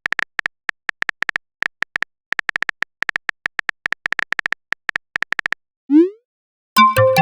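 Phone keyboard typing sound effect: a fast, irregular run of short clicks, then a quick rising swoosh about six seconds in, the sound of a chat message being sent. Near the end a louder notification sound of several tones together with a low thud comes in.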